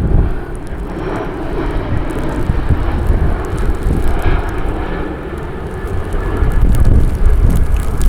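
Jet airliner's engines rumbling as it passes, with wind buffeting the microphone; the sound grows louder toward the end.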